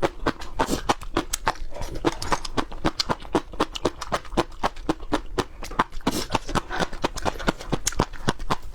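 An animal chewing raw peppers: a rapid run of crisp crunches, several a second.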